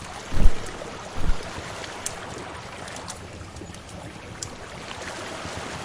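Wood fire crackling with scattered small pops over a steady wash of sea waves. Two deep low thumps come near the start, about a second apart.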